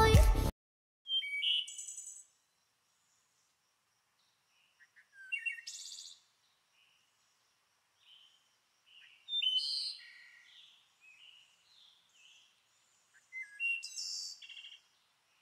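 A music track ends half a second in. Then small songbirds call in four short bursts of chirps and whistled notes a few seconds apart, with faint high twittering between the bursts.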